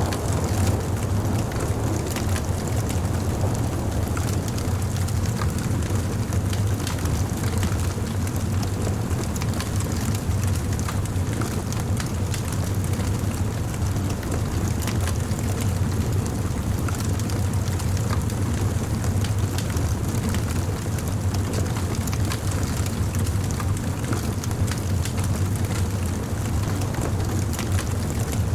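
Campfire burning, with frequent small crackles and pops of burning wood over a steady low rumble.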